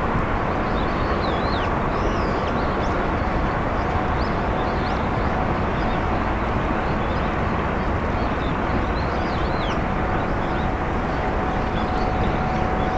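Small birds chirping on and off in short, quick notes over a steady outdoor background rumble with a faint steady hum.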